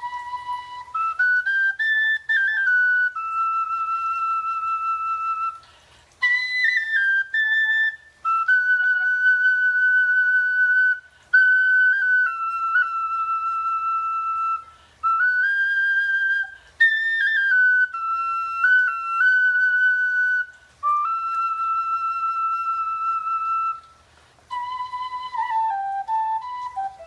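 A slow lament played on a single high-pitched wind instrument: held notes that step up and down, in phrases with short pauses between them.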